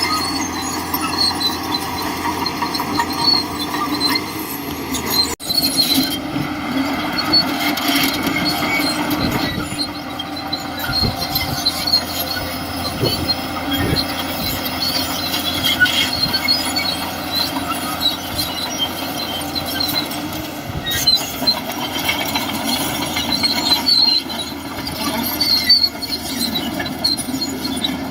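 Shantui DH17C2 crawler bulldozer working, its engine running steadily while its steel tracks give off scattered high-pitched squeaks.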